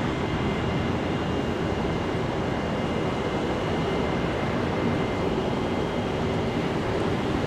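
Jet airliner engines running, a steady rumble with a faint high whine held on top.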